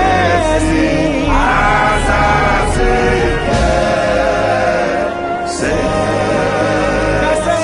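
Gospel music: a choir singing over a band, with a steady bass line and occasional cymbal strokes.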